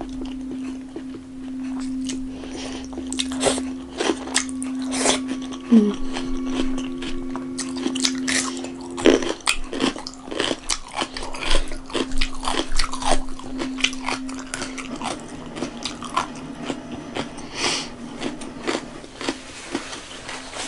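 Close-miked eating sounds: a person chewing a mouthful of rice, dal and vegetables eaten by hand, with many short wet smacks and crunchy clicks, over a steady low hum.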